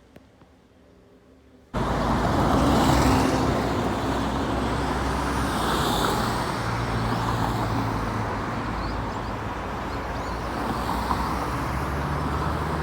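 Steady motor-vehicle and road noise with a low engine drone. It starts abruptly about two seconds in.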